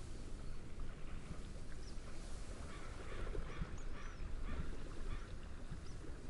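Wind and gentle waves make a steady low rumble. Over it, water birds give a run of short repeated cries for a couple of seconds near the middle, with a few thin, high bird chirps scattered through.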